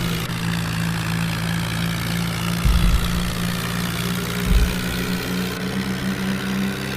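Tractor engine running at a steady speed, with two low thuds about three and four and a half seconds in.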